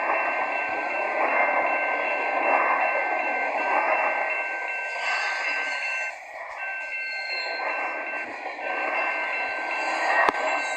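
Freight train wagons rolling past, a continuous running rattle with steady high-pitched tones held throughout, and one sharp click near the end.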